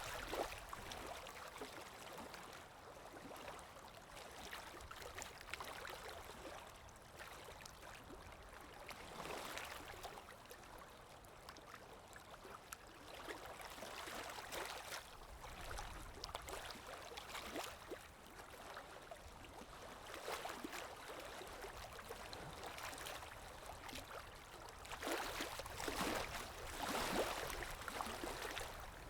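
Faint river water: gentle lapping and ripples that swell and fade every few seconds, strongest near the end.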